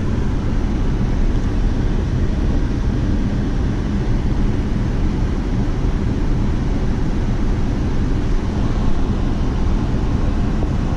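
An engine running steadily, a continuous low rumble with wind noise on the microphone.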